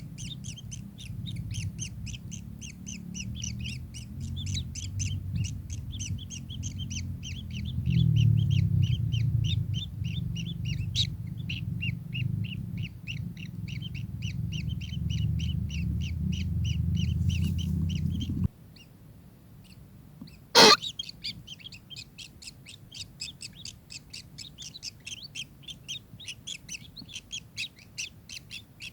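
Kingfisher calling in a long, fast run of sharp repeated chirps, about four or five a second. A low rumble runs under the calls and cuts off abruptly about two-thirds of the way through. Soon after, a single sharp knock is the loudest sound.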